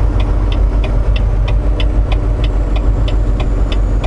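A Volvo VNL860 semi truck's diesel engine running, heard inside the cab, with a steady light ticking about three times a second.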